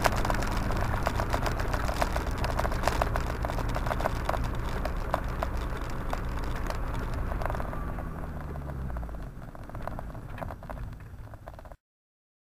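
Car engine and road noise heard from inside the cabin through a dashcam microphone, with frequent sharp clicks and crackles. The engine note drops about seven to eight seconds in as the car slows, the sound fades, then it cuts off abruptly to silence shortly before the end.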